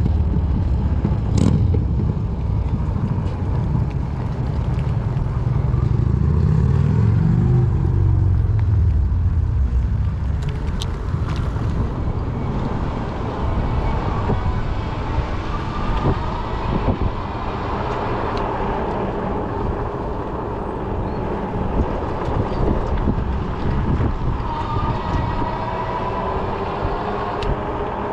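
Wind over the microphone and fat-tire rolling noise while riding an electric folding fat-tire bike, with a faint wavering whine coming in about halfway through and again near the end.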